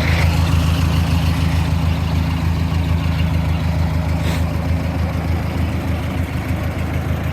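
Ford 620 tractor's four-cylinder gasoline engine idling steadily and evenly at a low throttle setting, with one faint click about four seconds in.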